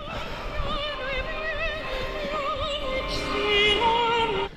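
Operatic singing: a high voice holding long notes with a wide vibrato over accompaniment, cutting off abruptly near the end.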